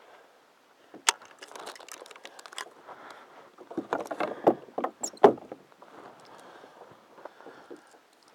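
Small fishing boat at sea: water splashing and lapping against the hull, with scattered knocks and clatter of gear. The loudest splashes come in a cluster just past the middle.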